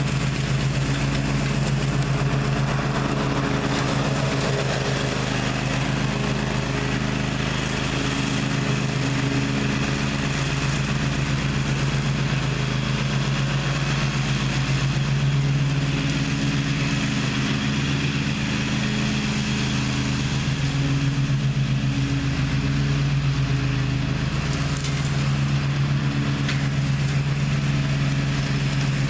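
Gravely ZTX 42 zero-turn mower's engine running steadily, with no break or change in pitch.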